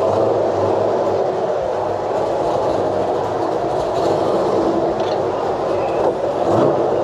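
1968 GMC pickup's LS7 V8 running steadily, heard from inside the cab.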